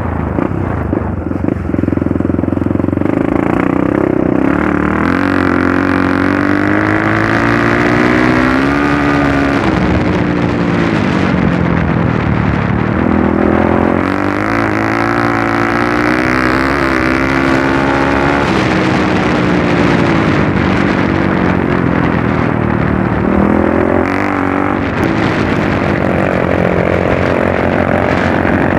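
A trail motorcycle's engine running under way. Its pitch climbs and falls back again and again as the throttle is opened and closed over rough ground.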